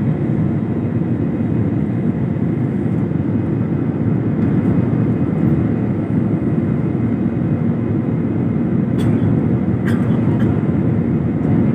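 Steady low rumble of an airplane, with two sharp clicks near the end.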